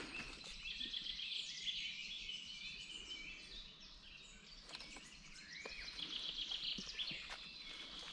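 Several songbirds singing, with overlapping high chirps and quick trilled phrases: one rapid trill about a second and a half in and another around six to seven seconds.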